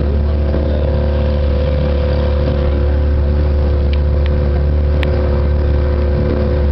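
An engine running steadily at constant speed, a low, even drone, with a couple of faint clicks a few seconds in.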